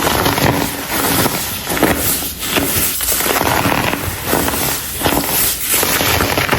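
Clumps of baking soda being crushed and crumbled by hand, a dense crunching crackle that swells with each squeeze, about once a second.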